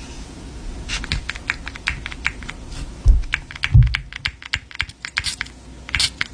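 Quick, light tapping and clicking on the perfume packaging, several taps a second, with two low thumps a little after three and near four seconds in.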